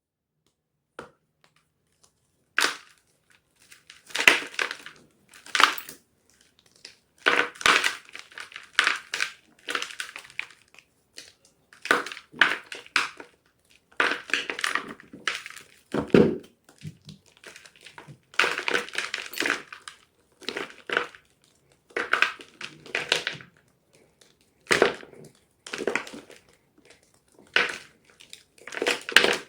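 Blocks of gym chalk being crunched, a series of short, crisp crunches coming in clusters with brief pauses between them, starting a couple of seconds in.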